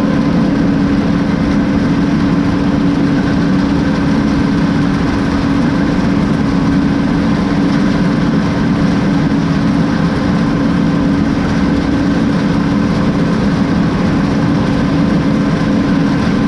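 Combine harvester running steadily while cutting soybeans: an even engine and machinery drone with a strong constant hum.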